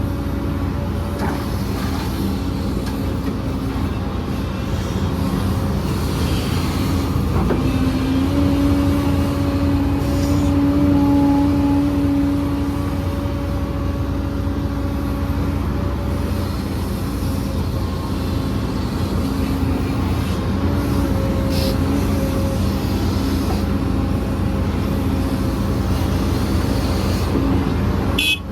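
Heavy diesel earthmoving machinery running steadily, with the engine note rising slightly about eight seconds in and easing back a few seconds later.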